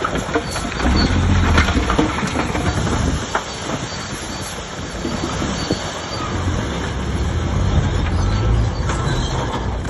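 Shantui DH17C3 crawler bulldozer at work: its diesel engine runs under load with a low rumble while the steel tracks clank and squeal.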